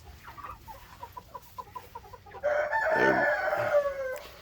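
Chickens clucking in a quick run of short notes, then a rooster crowing loudly for about a second and a half, starting about halfway through.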